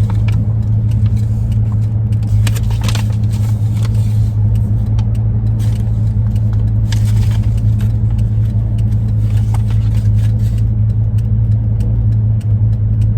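Steady low drone of the 2001 Ford E-350 van running, heard inside the cabin, with scattered light clicks.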